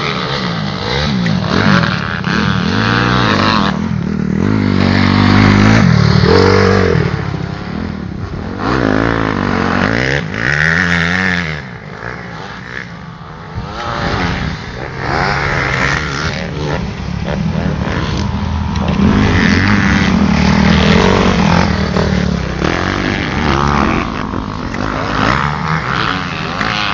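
Motocross motorcycle engines revving as bikes ride the track, their pitch climbing and dropping again and again with throttle and gear changes, a little quieter for a couple of seconds near the middle.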